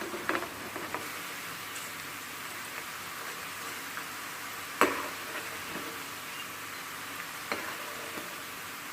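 Gram-flour-battered beetroot slices frying in hot oil in a pan, giving a steady sizzling hiss. A stirring utensil knocks against the pan a few times, loudest about five seconds in.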